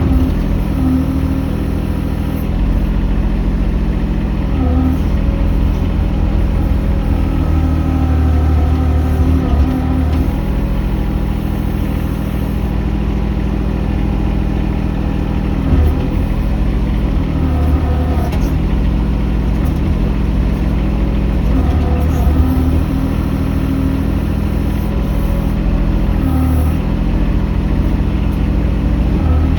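Mini excavator engine running steadily while digging, its pitch dipping briefly every few seconds as the hydraulics take load.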